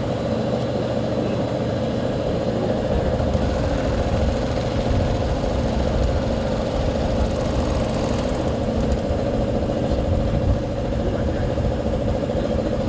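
Maize milling plant machinery running with a steady, even hum at a constant pitch.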